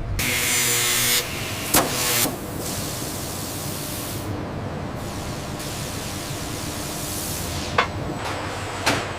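Factory machinery sounds: a burst of hissing for about the first second, then a few sharp metallic knocks over a steady mechanical hum.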